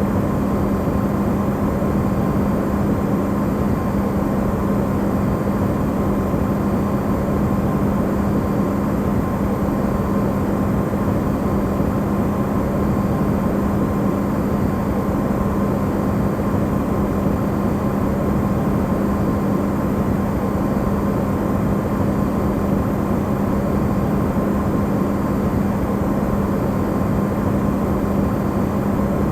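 Electrolux refrigerator running, recorded amplified: a steady low hum with a fainter higher tone over an even noise, unchanging throughout.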